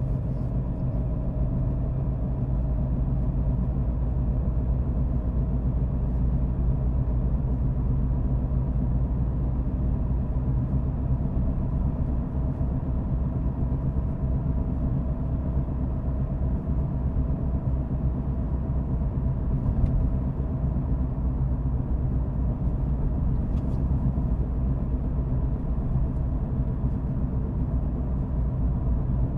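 Car being driven at a steady pace: an even low rumble of engine and road noise, with a steady hum. A couple of faint ticks come in the latter half.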